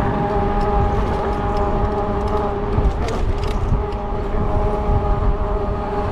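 Fat-tire e-bike riding along at a steady speed: a steady whine over a low rumble of wind on the microphone.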